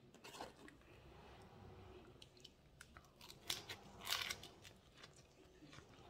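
Crunchy chewing and biting of a fresh lettuce-leaf wrap of chicken larb, with scattered crisp clicks and a couple of louder crunches a little past the middle.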